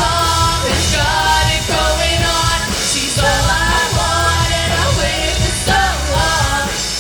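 Live rock band playing: drums and bass with a melodic line over them.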